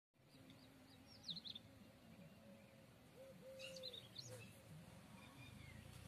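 Faint birdsong of small birds: a quick run of high chirps about a second in and a livelier burst of twittering calls around three and a half to four seconds, over a low outdoor background.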